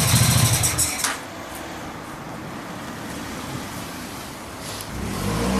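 Honda NV750 Custom's V-twin engine idling, then shut off about a second in: its running dies away with a click, leaving a low steady hum. A faint sound rises near the end.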